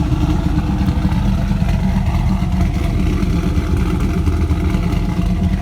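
2000 Chevrolet Camaro SS's cammed 5.7-litre LS1 V8 idling steadily through long-tube headers and a 3-inch, nearly straight-piped exhaust, with the choppy lope of an aftermarket cam.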